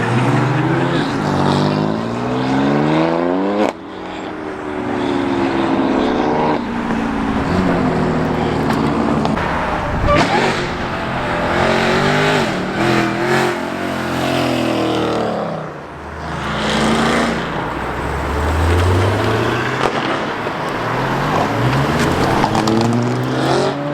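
Several cars pulling away one after another, their engines revving hard and rising in pitch as they accelerate, then easing off. There are voices in the background.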